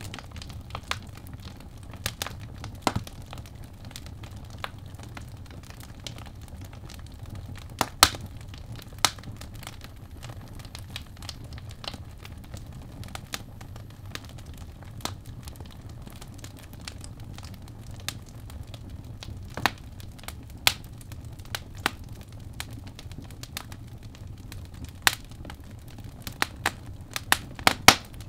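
Birch logs burning in a fireplace: a steady low rumble of flame with sharp, irregular crackles and pops, one loud pop about eight seconds in and a quick run of pops near the end.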